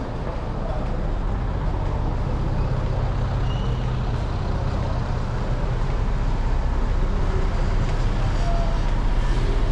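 A motor vehicle's engine running close by in street traffic: a steady low rumble that grows slightly louder.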